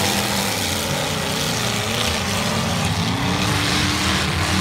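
Several race car engines running together during a race, their pitch rising and falling as the drivers work the throttle.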